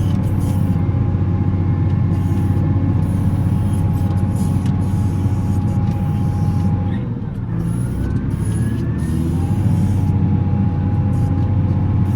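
Volvo L70C wheel loader's diesel engine running steadily under load, with a thin high whine above it. About seven seconds in the revs drop briefly, then climb back up with a rising whine.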